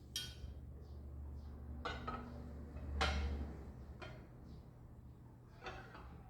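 Dishes and utensils being handled: a few separate clinks and knocks, the loudest about three seconds in, over a steady low hum.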